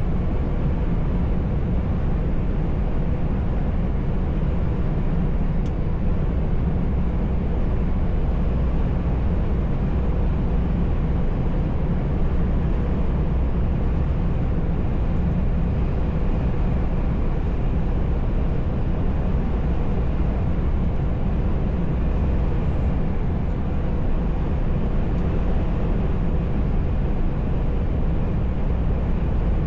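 Steady low rumble of a truck's engine and tyres on the road, heard inside the cab while driving, with two faint ticks.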